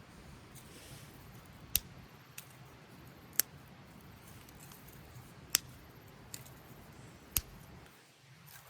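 Four sharp clicks, each about two seconds after the last, with two fainter clicks between them, over a low, even background.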